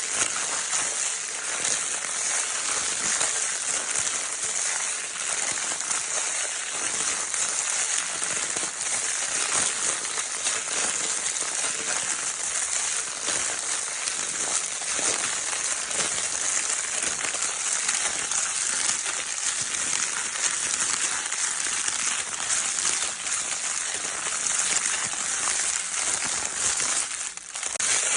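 Baby's crinkle paper toy being crinkled continuously: a dense, steady crackling rustle, with a brief dip near the end.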